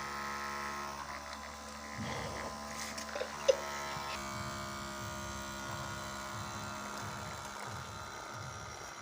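Small electric motor of a homemade matchbox toy tractor running with a steady buzzing whir. A few clicks come about three seconds in, the sharpest and loudest about half a second later.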